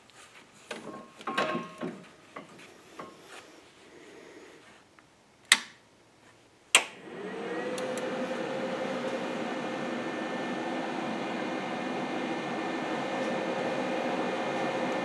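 Scattered handling clicks and knocks, then two sharp clicks. About seven seconds in, an electric motor switches on, spins up with a quickly rising hum and then runs steadily.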